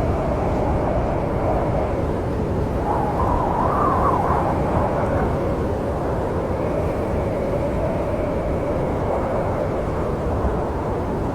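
Snowstorm wind: a steady deep rumble with a wavering, whistling howl that rises in pitch about three to four seconds in and then settles back.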